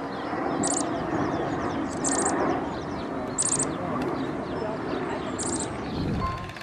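A small bird giving short, very high chirps of a few rapid notes each, four times at intervals of about one and a half to two seconds, over dense background chatter.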